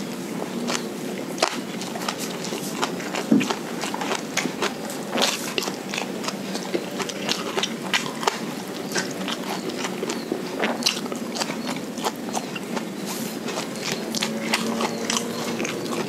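Close-miked chewing of a mouthful of fried rice, with many short, irregular mouth clicks.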